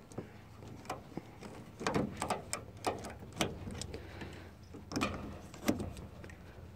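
Irregular clicks and light knocks as hoses and their clamps are handled and pushed back onto a washing machine's water inlet valve.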